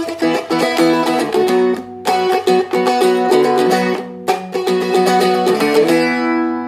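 Seagull Merlin M4, a four-string dulcimer-style instrument, strummed hard in a chord progression. The strings are hit and muted between chords, leaving short breaks twice. The last chord is cut off near the end.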